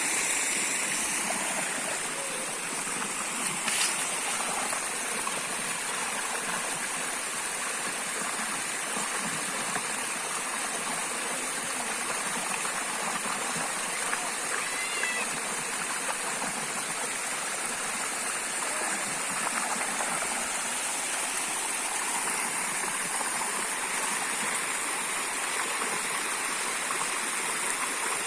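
Waterfall running: a steady rush of falling water, with a brief knock about four seconds in.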